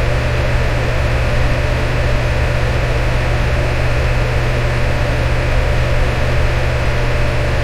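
Electric fan running steadily: an even rush of moving air over a strong low motor hum.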